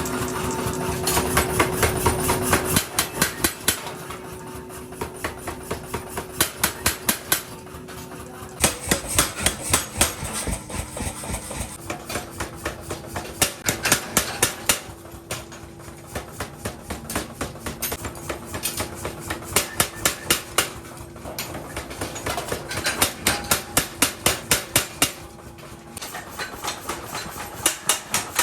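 Hammer blows on metal, struck in quick runs of about four a second with short pauses between runs, over a faint steady machine hum.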